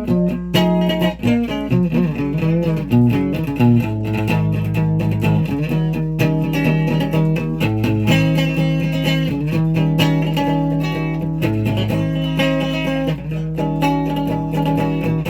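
Guitar playing: held notes and chords that change every second or two, over a steady low hum.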